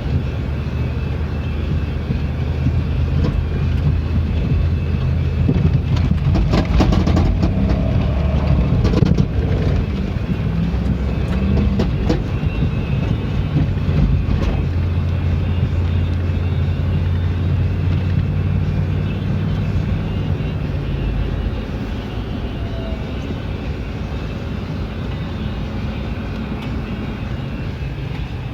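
Jeep engine and drivetrain running while driving, with steady road noise. A cluster of sharp rattles or clicks comes about six to nine seconds in.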